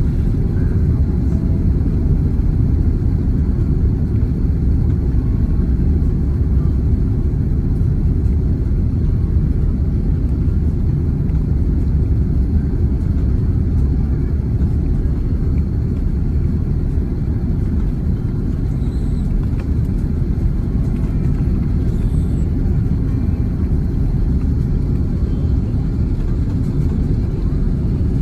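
Steady low rumble of engine and airflow noise inside the cabin of an Airbus A330-300 in flight, even in level with no thump or surge.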